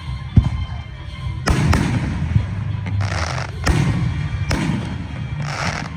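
Aerial fireworks going off: a sharp boom less than a second in, then from about a second and a half in a run of booms, each followed by dense crackling bursts.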